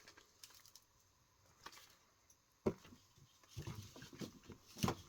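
Faint handling noises of cardboard firework items: scattered clicks and rustles, with a sharper knock about two and a half seconds in and another near the end as items are set down and picked up.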